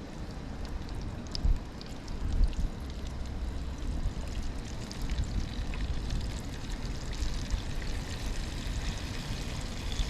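Breaded chicken-fried steak fingers frying in oil at about 350°F, a steady sizzle with fine crackling that grows denser after the first few seconds. A couple of low thumps stand out in the first few seconds.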